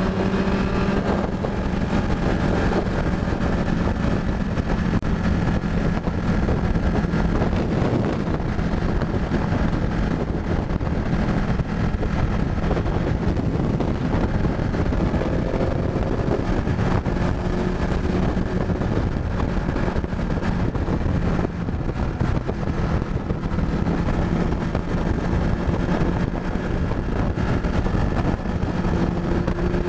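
Ducati 899 Panigale's L-twin engine running at a steady highway cruise, with wind rushing over the microphone.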